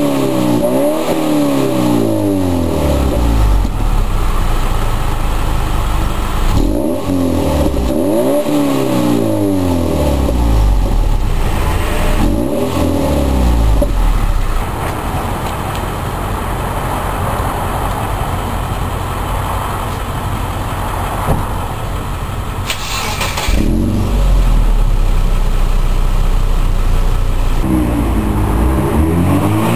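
2008 Subaru Impreza 2.5i's flat-four engine revving through an OBX catback exhaust, the pitch climbing and falling back several times. Midway it settles into a steadier, rougher rumble, then revs up again near the end.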